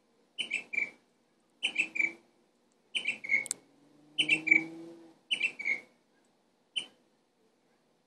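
A bird singing in short phrases of two or three quick, high chirps. There are six phrases, about one a second, the last a single chirp.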